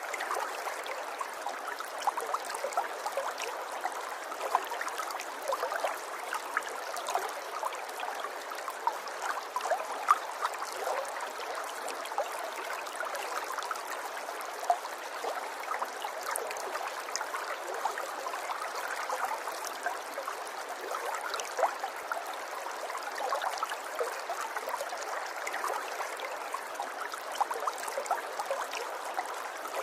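A small river or stream flowing steadily over stones, a soft, even burble with many small splashes and trickles.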